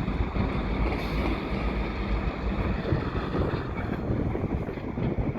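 Wind buffeting the microphone, with the steady low running of GP38-2 diesel locomotives underneath.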